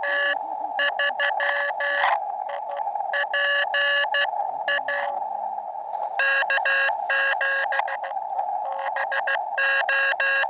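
Morse code (CW) from a portable HF ham radio: a steady beep keyed on and off in dits and dahs, in several groups with short pauses, over a narrow band of receiver hiss.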